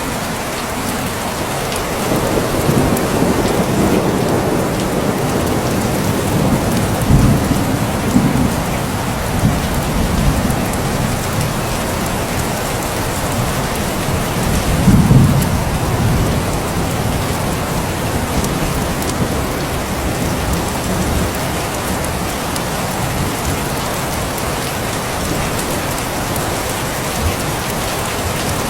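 Steady heavy rain falling, with distant thunder rumbling low several times, loudest about fifteen seconds in.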